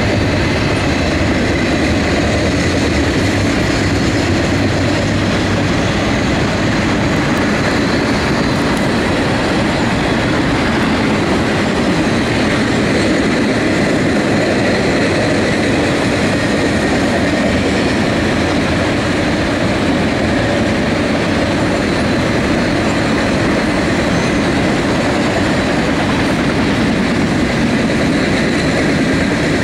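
Freight train of double-stack container cars and trailer flatcars rolling past: the steady noise of steel wheels running on the rails, with clickety-clack over the rail joints.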